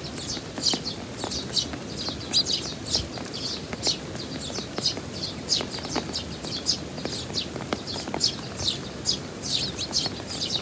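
Eurasian tree sparrow chirping over and over, short falling chirps two or three a second, against the steady hiss and patter of heavy rain.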